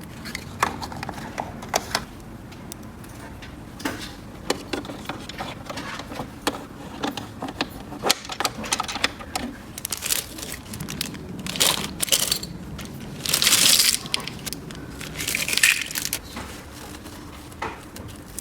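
Small plastic toy pieces handled by hand: scattered clicks and taps, with two longer crinkling rustles in the second half.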